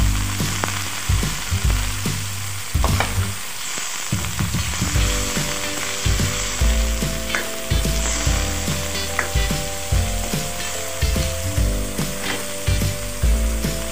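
Marinated chicken pieces sizzling in hot oil with onion and garlic in a nonstick wok, stirred with a spatula that scrapes and taps the pan many times.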